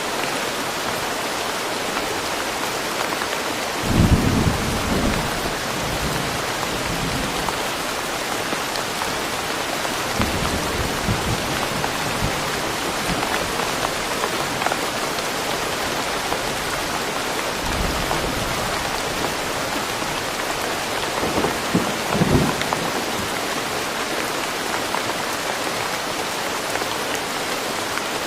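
Steady rain falling, with low rumbles of thunder several times, the strongest about four seconds in and another just after twenty-two seconds.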